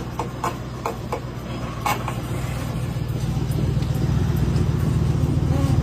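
A train rolling along the track with a steady low rumble that grows louder. There are a few sharp clicks in the first two seconds.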